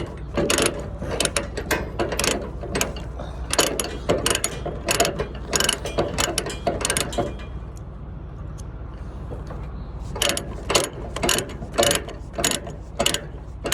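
Ratchet chain load binder being cranked to draw a slack tie-down chain tight, its pawl clicking in quick runs with a pause of about two seconds past the middle. A steady low hum runs underneath.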